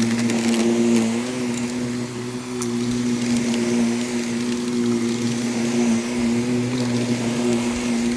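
Vacuum cleaner running on a rug, a steady motor hum over a rush of air, its pitch wavering slightly as it is worked. A few light ticks sound in the first few seconds.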